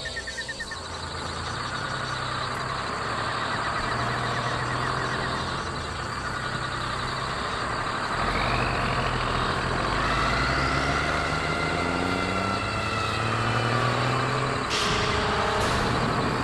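A large truck engine running, its pitch rising about halfway through as it revs and then easing back, with a brief run of rapid beeps at the start.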